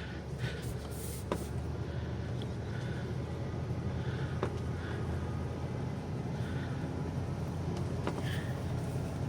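Carbureted engine of an old Ford motorhome running steadily, heard from inside the cab as the RV creeps forward, with a few light clicks and rattles from the body.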